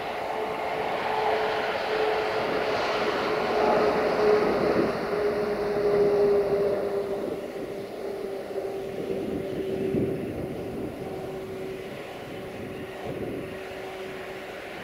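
Heavy freight train of tank wagons rolling away on the rails, a steady rolling rumble with a steady tone that slowly drops in pitch. The sound eases off in the second half, with a single knock about ten seconds in.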